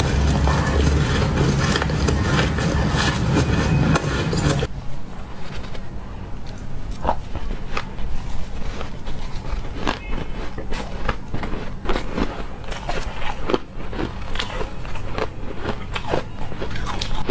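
Ice or freezer frost being bitten and chewed close to the microphone: dense crunching for the first few seconds, then, after a sudden change about a third of the way in, separate sharp crunches and crackles.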